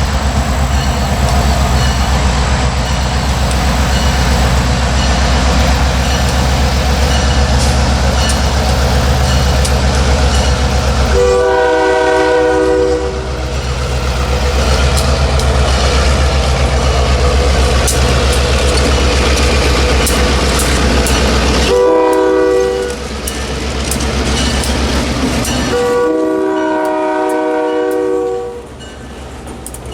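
Diesel freight locomotive passing close by, its engine running with a loud steady rumble. Its multi-chime air horn sounds three times: a long blast about 11 seconds in, a short one about 22 seconds in, and a longer one near the end.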